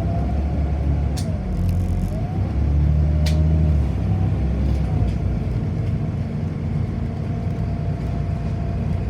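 City bus running, heard from inside the passenger cabin: a steady low rumble with a whine that dips and rises, and a couple of sharp clicks or rattles.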